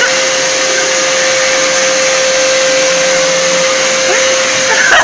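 Vacuum cleaner running steadily, a constant rushing hiss with a steady whine.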